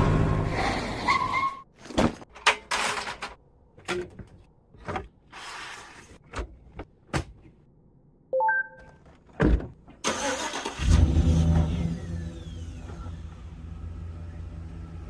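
A motor hum for the first second or so, then a string of separate knocks and clicks with a short electronic beep about eight seconds in. At about ten seconds a machine starts with a loud surge and settles into a steady low hum.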